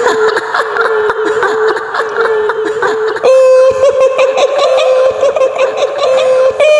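High-pitched woman's laugh in the manner of the kuntilanak ghost: a long run of rapid 'hihihi' pulses on a held note that steps higher about three seconds in.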